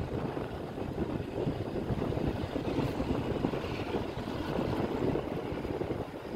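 Passenger train running along the track, heard from the window of one of its moving coaches: a steady running noise of wheels on rails.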